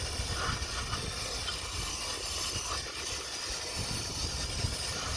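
Aerosol cleaner spraying in one long, steady hiss, cleaning out the emptied oil filter housing.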